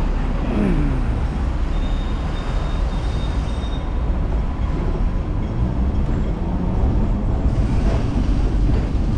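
Hong Kong electric tram running on its rails, a steady heavy rumble with a falling whine about a second in and a faint high squeal for a couple of seconds mid-way.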